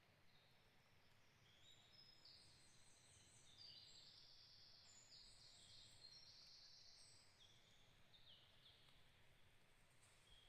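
Faint chorus of high, thin bird calls: many overlapping held notes at different pitches, thickest in the middle and thinning out near the end, over a soft low background hiss.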